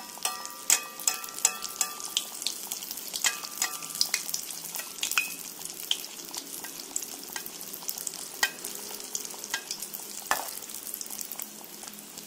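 Kue cucur batter of rice flour and palm sugar deep-frying in hot oil in an aluminium wok: steady sizzling with frequent sharp crackles, while a bamboo skewer and a metal spoon work the cake in the oil.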